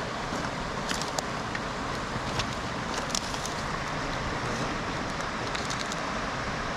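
Twigs and branches of a newly lit campfire crackling, with a handful of sharp snaps, over a steady rush of wind on the microphone.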